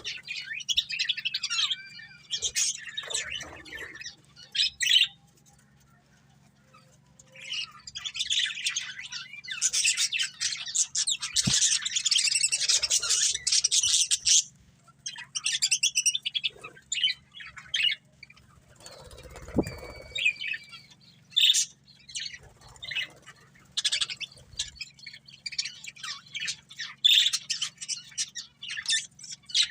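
Budgerigars chirping and chattering in irregular bursts of rapid, high chirps, with a short lull a few seconds in and a dense stretch of chatter near the middle.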